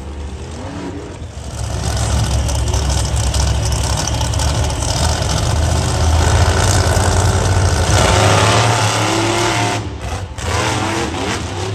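Monster truck engines running loud under throttle, swelling about a second and a half in, holding strong, then easing off briefly near the end.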